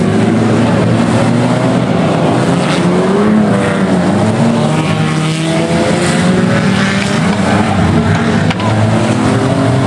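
Many banger racing cars' engines running and revving at once, their pitches rising and falling against each other.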